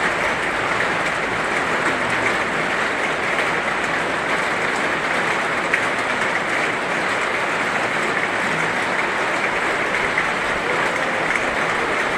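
Heavy rain falling steadily, an even hiss that keeps on without let-up.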